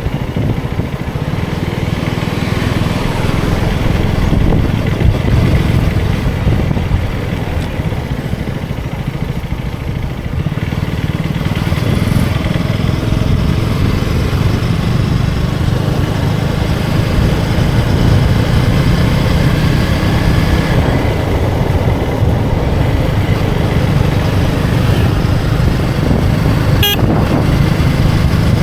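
Motorcycle engine running while riding in street traffic, a steady low rumble that dips briefly about ten seconds in. There is a sharp click near the end.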